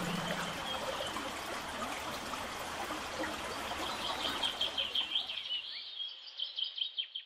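Songbirds chirping in quick repeated phrases over a soft outdoor hiss. The hiss fades about six seconds in, leaving the birds alone until the sound cuts off.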